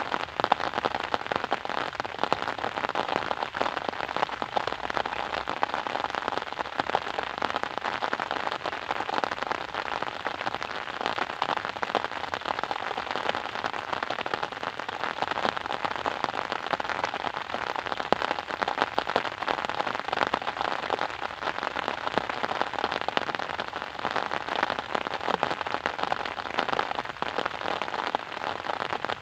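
Steady rain pattering on a surface, a dense, even patter of many drops.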